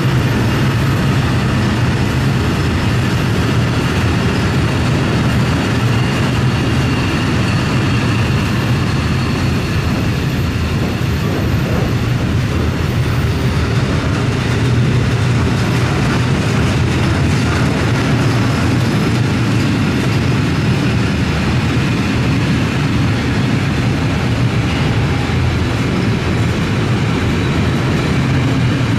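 A train running past close by: a steady, loud rumble with a low hum under it.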